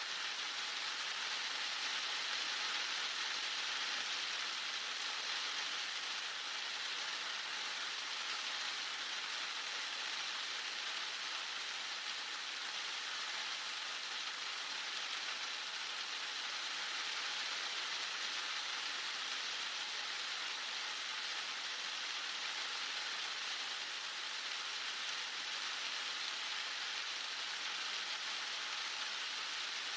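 Heavy rain falling steadily, a dense even hiss of drops hitting surfaces with no breaks or changes.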